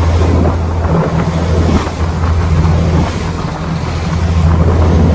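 The New Kasaoka passenger ferry's engine running with a steady low drone, with wind buffeting the microphone and the rush of water over it.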